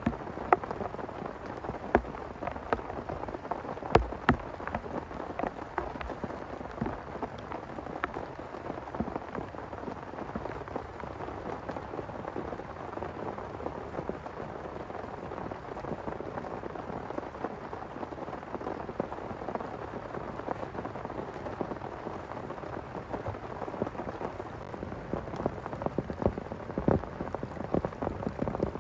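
Heavy rain pouring steadily, with many sharp individual drops striking a close surface; the loudest hit comes about four seconds in.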